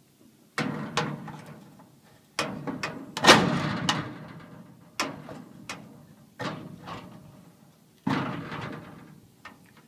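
Steel drawer runners being hooked into the slots of a metal lateral filing cabinet frame: a series of about ten metal clanks and knocks, each ringing briefly as it dies away.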